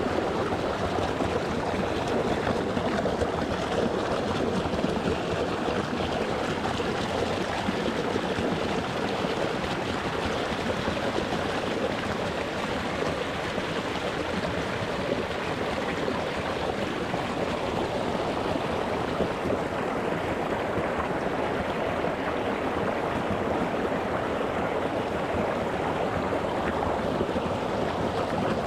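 Water running over rocks in a small shallow stream, recorded close to the surface: a steady, continuous rushing and babbling with no pauses.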